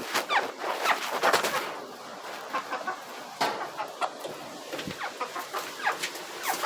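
Backyard hens clucking and squawking: a quick run of short, sharp clucks and brief falling calls from several birds.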